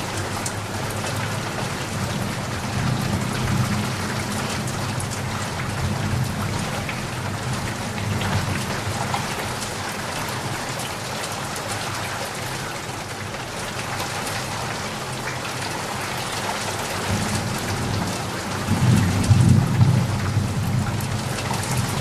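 Steady heavy rain falling, with low rolling rumbles of thunder underneath. The loudest rumble comes near the end.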